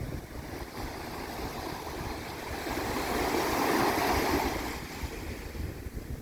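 Water washing and wind buffeting the microphone. A louder rush of wash swells up about halfway through and fades again a second or two later.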